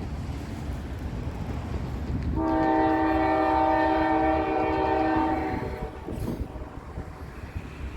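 Diesel freight locomotive's air horn sounding one long chord blast of about three seconds, starting a couple of seconds in, over the low rumble of the train and road.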